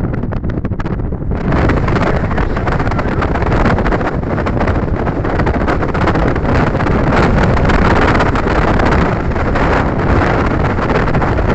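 Strong wind buffeting the microphone: loud, dense wind noise that gets stronger about a second and a half in.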